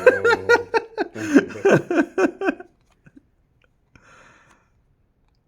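A man's made-up vocal "sound": a rapid run of short, high-pitched yelping syllables, about six a second, lasting about two and a half seconds. Then a faint rustle about four seconds in.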